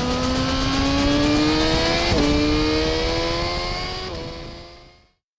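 Suzuki GSX-R1000's 999.8cc inline-four engine accelerating hard: the pitch climbs, drops sharply twice at upshifts about two seconds apart, climbs again after each, then fades out near the end.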